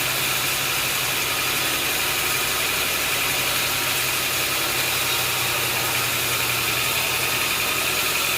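An engine running steadily at idle, with an even low hum and a hissing band higher up.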